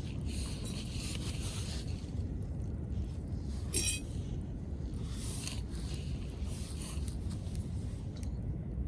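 Wood fire burning with a low steady rumble and patches of crackling and hissing. A single short ringing clink comes about four seconds in.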